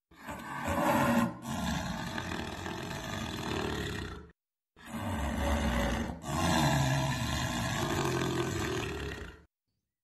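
Jaguar roaring in two stretches of about four seconds each, cut apart by a brief silence just past the middle.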